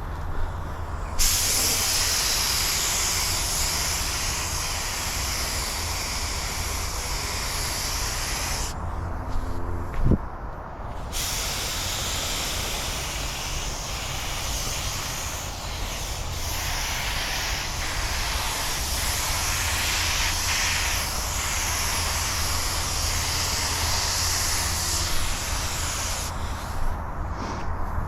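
A loud steady hiss of a pressurised jet that cuts in about a second in, breaks off for a couple of seconds near the middle, then runs on until shortly before the end, over a low steady rumble.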